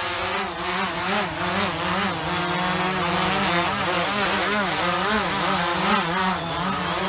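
Quadcopter drone's propellers buzzing in flight, the pitch wavering up and down as the rotors speed up and slow down.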